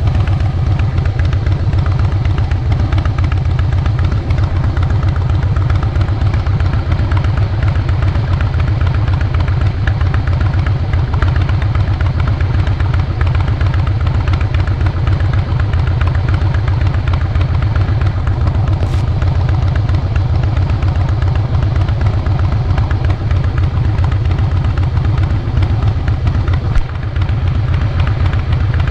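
2012 Harley-Davidson Fat Boy Lo's Twin Cam 96B V-twin running through Vance & Hines Big Radius 2-into-2 pipes while the bike is ridden at a steady pace, with a deep, even exhaust note. Near the end the note briefly dips.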